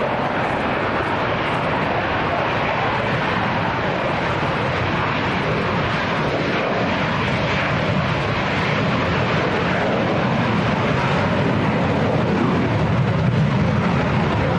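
Military jet aircraft engines, a steady loud rush of noise that grows a little louder near the end.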